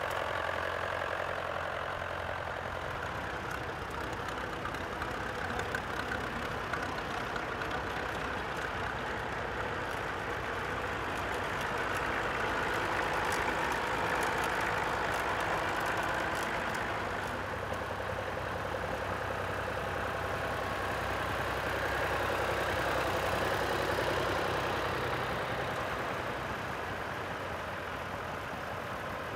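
Vintage tractor engine running at a steady idle, its drone swelling in level twice.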